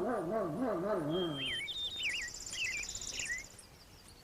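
A wolf howling in a low, wavering voice that rises and falls several times a second, its alarm call at intruders near the pups; the howl ends about a second and a half in. After that, birds chirp and a high buzzing trill sounds for a couple of seconds.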